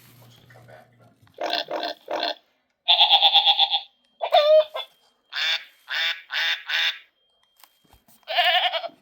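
A quick run of farm-animal calls from a children's sound book, one after another: three short calls, a longer held call, a call that slides in pitch, four more short calls, then one last call near the end. Each one starts and stops cleanly.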